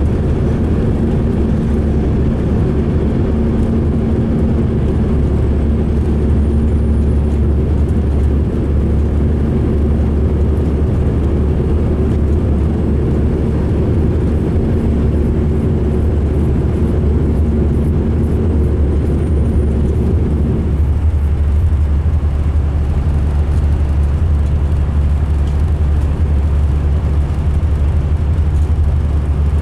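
2005 MCI D4500 coach's diesel engine running, a steady deep rumble that sounds rough. A higher hum layered over it drops away about two-thirds of the way through, while the rumble carries on.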